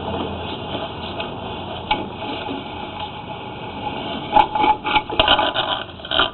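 Rubbing and rattling handling noise with light clicks, then a cluster of sharp knocks and clatter about four seconds in.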